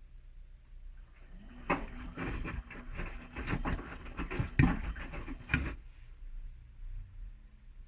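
Whirlpool washing machine in its main wash: the motor starts with a rising hum about a second in, then the drum turns for about four seconds with laundry and water tumbling and knocking, and stops.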